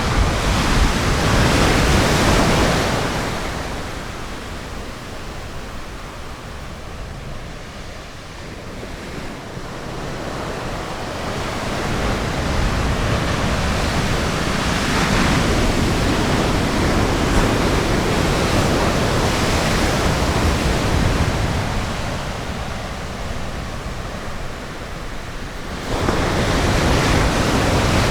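Ocean surf breaking and washing on a beach, the noise rising and falling in slow surges as waves come in, with a sudden louder surge near the end.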